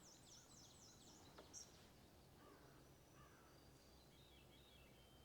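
Near-quiet outdoor background with wild birds calling faintly: a quick run of about six high, down-slurred notes in the first second, then a few scattered faint chirps.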